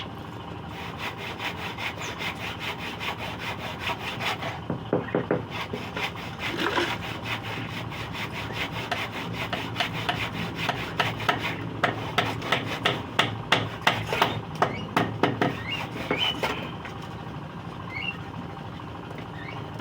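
Hand saw cutting through a piece of scrap wood: a rhythmic back-and-forth rasp of strokes, about two to three a second, growing louder in the last few seconds of sawing. It stops a few seconds before the end.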